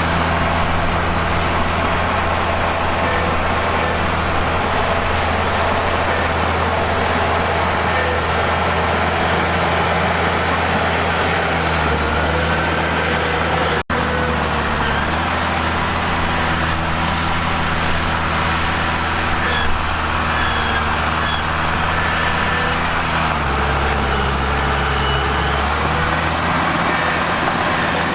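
Mitsubishi bulldozer's diesel engine running steadily under work, its pitch dropping twice for a few seconds as it loads up. The sound cuts out for an instant about halfway through.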